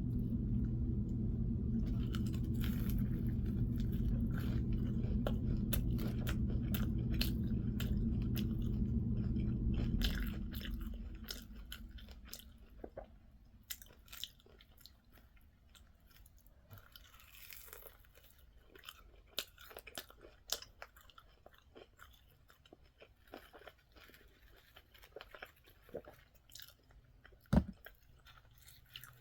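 A person chewing and crunching fried food close to the microphone, with small wet mouth clicks. A steady low hum runs underneath for the first ten seconds or so, then stops.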